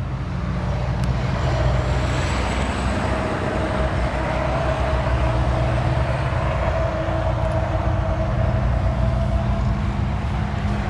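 Highway traffic going by: a steady rumble and tyre hiss with a low hum, building up over the first couple of seconds and then holding.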